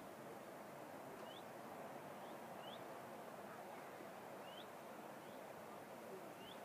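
A bird giving short, high, rising call notes, about five of them at irregular intervals, over a steady outdoor rushing background.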